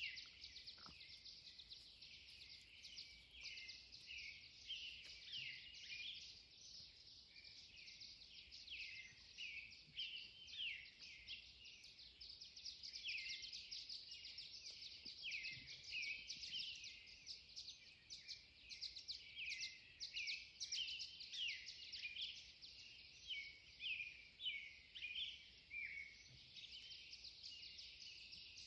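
Dawn chorus: many songbirds chirping and singing over one another in a dense, unbroken stream of short high notes and trills.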